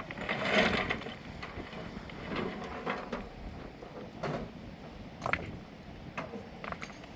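A series of irregular knocks and clatters, with a louder rustling swell in the first second.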